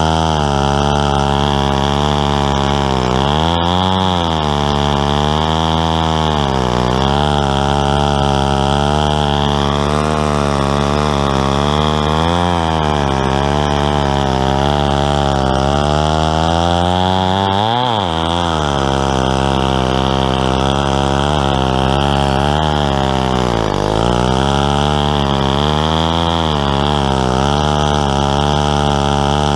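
Stihl 090 two-stroke chainsaw running under load as it rips a lengthwise cut through a tulip poplar log in a chainsaw mill. The engine pitch wavers continually as the load changes, with a brief sharp rise a little past halfway.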